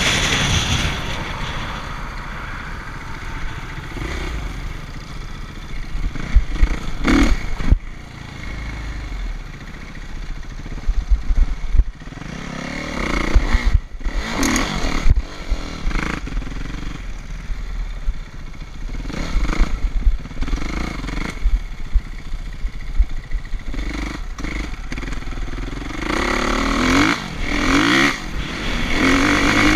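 Motocross dirt bike engines revving and riding, the pitch rising and falling with the throttle in several spells, loudest near the end, over a steady low rumble.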